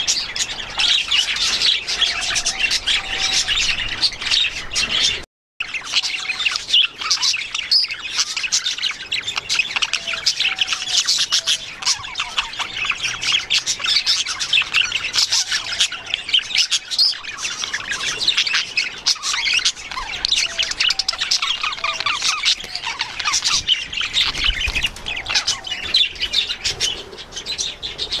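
A flock of budgerigars chattering and chirping continuously in an aviary, with occasional squawks. The sound cuts out completely for a moment about five seconds in.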